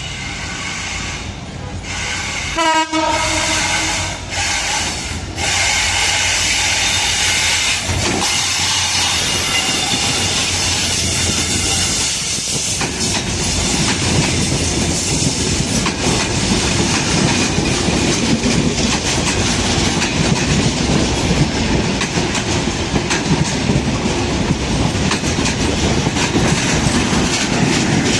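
Diesel locomotive horn of an EMD 6600-series engine sounding several blasts in the first few seconds. Then the train passes close by, its engine running and its wheels clattering over the rail joints, a steady din that grows a little louder.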